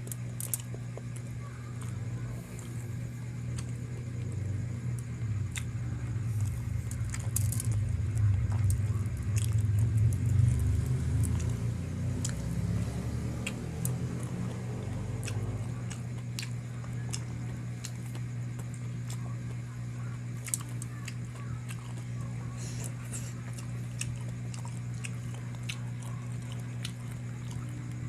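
Chewing and biting on spicy chicken, with short wet clicks scattered throughout, over a steady low hum. A low rumble swells over the first half and fades out a little past the middle.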